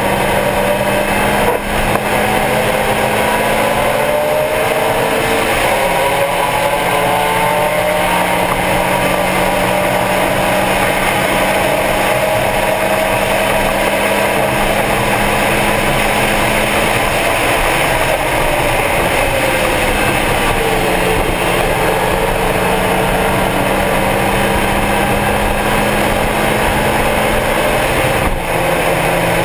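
Stock Mazda Miata's four-cylinder engine running hard on track at steady high revs, its pitch dipping slightly a few times, with wind and road noise.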